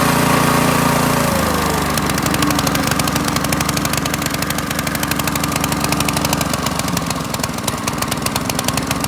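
Predator 212cc single-cylinder four-stroke engine running on its first start, held at raised speed and then dropping to a steady idle about a second and a half in, its separate firing pulses plainly heard.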